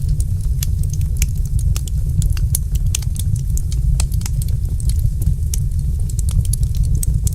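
Wood fire in a fireplace crackling, with frequent irregular sharp pops and snaps over a steady low rumble of the burning fire.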